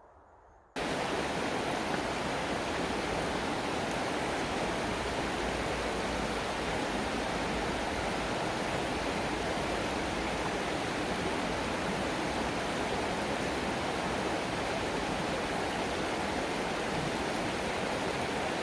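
Loud, steady rushing noise with no tone or rhythm, starting suddenly about a second in and cutting off suddenly near the end.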